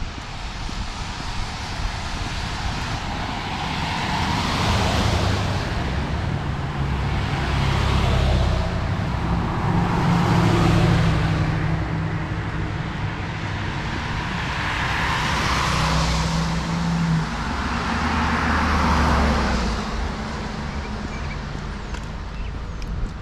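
Cars passing one after another on a rain-wet road, about five in turn, each tyre hiss swelling and fading, over a low engine drone.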